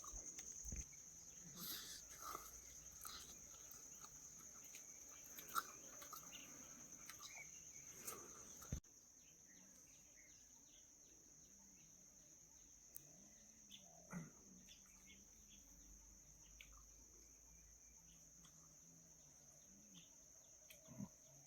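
Near silence with a faint steady high insect drone, typical of crickets, and scattered small clicks and soft taps. The background level drops abruptly about nine seconds in.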